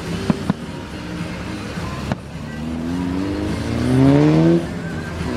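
Scattered sharp pops of distant fireworks, then a vehicle engine revving up, rising in pitch and loudest about four seconds in.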